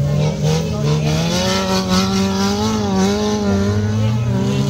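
Old scrap car racing on a dirt autocross track, its engine revving hard with the pitch rising and falling.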